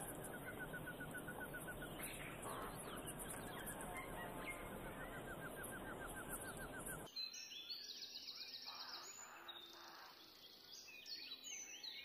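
Birdsong chorus. For the first seven seconds a busy layer of calls runs over a high hiss, with a quick repeated chirping trill; then it switches abruptly to clearer, separate songbird phrases.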